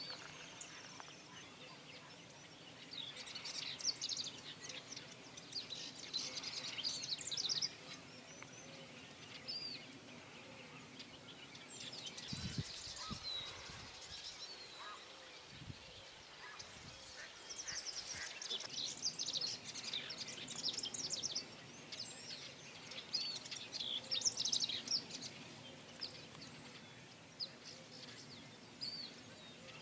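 A flock of birds calling together in bouts of short, high, overlapping calls, with quieter lulls between the bouts.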